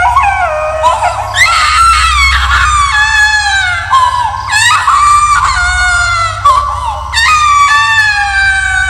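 Eerie high-pitched wailing screams, a horror sound effect: several long cries that slide downward in pitch, new ones starting every one to three seconds and overlapping, over a steady low droning hum.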